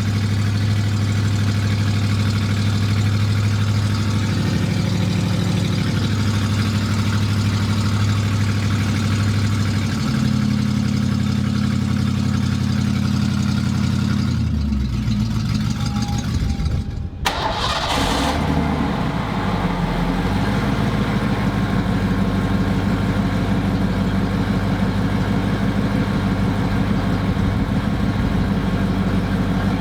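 1989 Ford Mustang's 302 V8, straight-piped from the headers, running at a fast cold idle as it warms up. The idle shifts about a third of the way in. There is a brief break about halfway through, after which it settles into a lower, pulsing idle.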